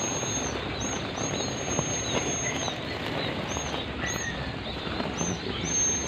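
High, thin calls of small birds repeating over a steady rustle, with a few long held notes and short upturned chirps.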